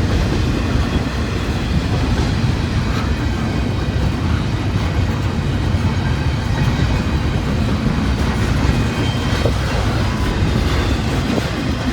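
Long CSX intermodal freight train rolling past: a steady rumble of its cars on the rails.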